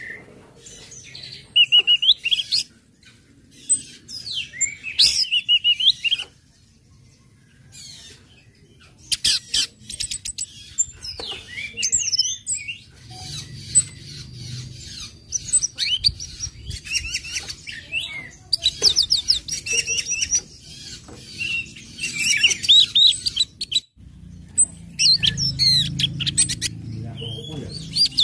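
Orange-headed thrush singing in bursts of varied high chirps, sliding whistles and fast rattling trills, broken by short pauses.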